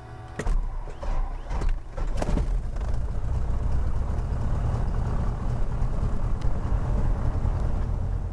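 Cessna 177RG Cardinal cockpit noise: a few irregular knocks, then from about two and a half seconds in a steady low engine and propeller drone with airflow noise.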